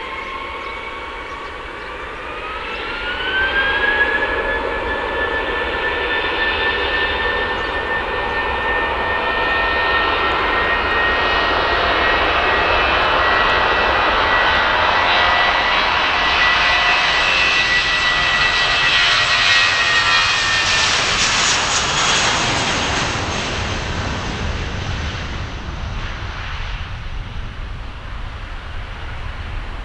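Jet airliner's engines: a whine that rises in pitch about three seconds in, then holds steady over a loud rumble. The whine drops away about two-thirds of the way through, and the rumble fades.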